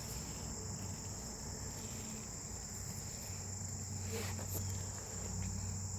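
Steady chorus of insects such as crickets, a continuous high trill, with a faint low hum beneath and a couple of light clicks about four seconds in.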